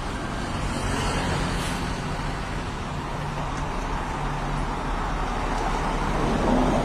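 Scania bus engine running steadily with road noise while the bus drives, a constant low hum.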